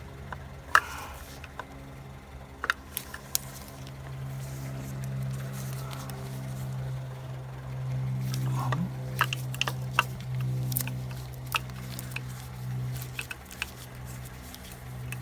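Scattered light clicks and taps of distributor parts being handled, over a steady low hum that slowly swells and eases.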